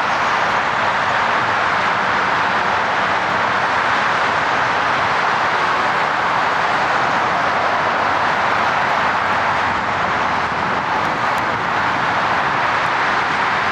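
Jet engine noise from a Boeing 747-400, a steady even rush with no change in pitch.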